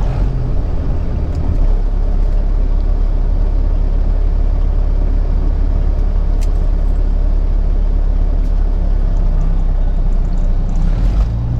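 Peterbilt 379 semi-truck's diesel engine and road noise heard from inside the cab while cruising, a steady low rumble.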